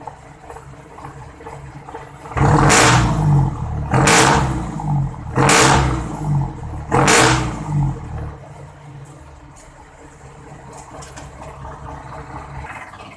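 Diesel jeepney engine revved four times in quick succession through a new all-stainless muffler, about a second and a half apart, then settling back to idle.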